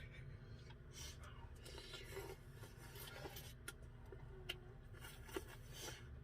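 Faint eating sounds over a low steady hum: scattered soft clicks and scrapes of chopsticks in a bowl of ramen, with a few brief breathy sounds.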